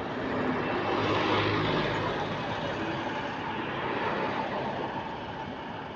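A London bus running, heard from inside: engine hum with road and body noise, growing a little louder about a second in and easing off towards the end.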